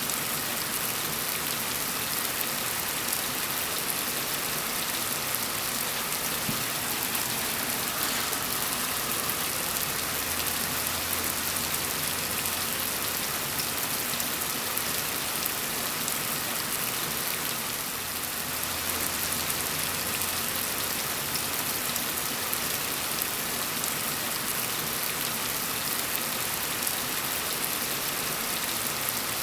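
Steady rain falling, an even hiss of drops on surfaces with no breaks.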